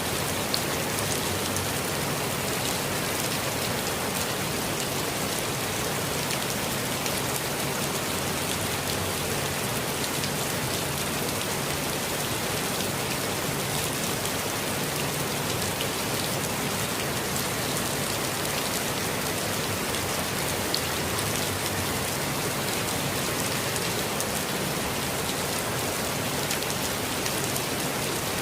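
Steady rain falling in a forest: a dense, even patter of drops, with a couple of louder single drops standing out briefly.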